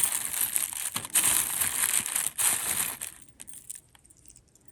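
Crinkling and rustling of packaging being handled, for about three seconds, then it stops.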